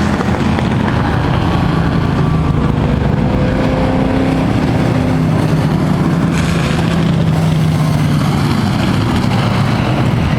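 Engines of several Thunder Truck race trucks running hard around a dirt oval, their pitches overlapping and drifting up and down as the trucks race through the turns.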